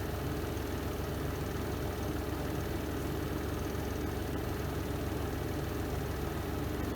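Spin drum of a Renova semi-automatic twin-tub washing machine running at a steady speed, an even, unchanging hum.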